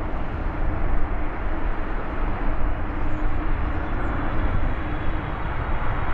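Jet engines of a Boeing 777 freighter, heard as a steady, loud rumble with a faint low hum running through it.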